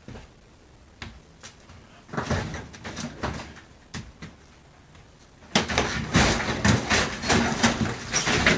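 Knocks, clatter and scraping from handling and breaking apart a refrigerator's panels and insulation, in two busy stretches with scattered single knocks between.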